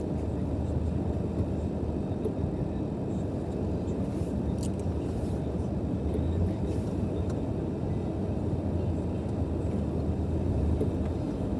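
Car engine idling, heard as a steady low hum from inside the cabin.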